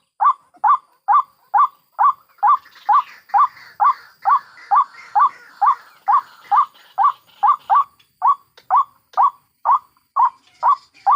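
White-breasted waterhen calling: a steady series of short, repeated notes, a little over two a second. A fainter second bird chatters over it for several seconds in the middle.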